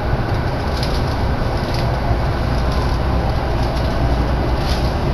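Interior running noise of a commuter electric train pulling out of a station: a steady rumble of wheels on rails and car body, with a few faint clicks.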